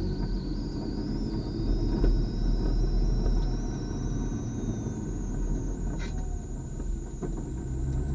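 In-car sound of a BMW club race car at speed: a heavy, rough rumble of engine and road noise under a thin high whine that climbs slowly in pitch. A brief sharp click comes about six seconds in.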